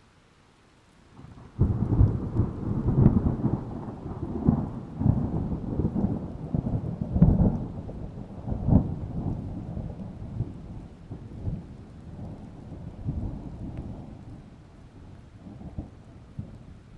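A long roll of thunder breaks in suddenly about a second and a half in. It brings a string of loud cracks and rumbles for several seconds, then slowly dies away. Steady rain runs underneath throughout.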